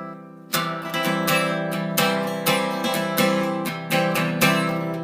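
Acoustic guitar strummed in a steady rhythm, about two strokes a second, as the instrumental intro of a folk-country song. A chord rings at the start and the strumming comes in about half a second in.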